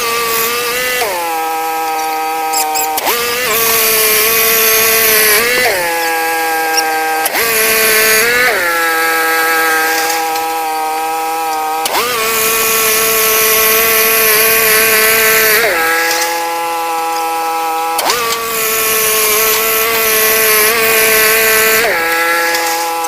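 Wood-Mizer portable band sawmill running: the engine's pitch rises and settles back down several times, and at the higher speed the band blade hisses through a pine log.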